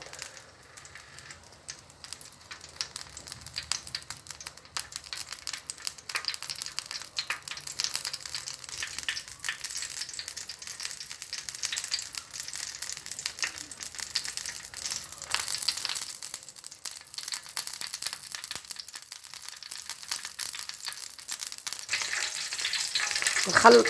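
Cooking oil heating in a baking tray over a flame, crackling and sizzling as it comes up toward the boil. The crackle thickens and gets louder toward the end.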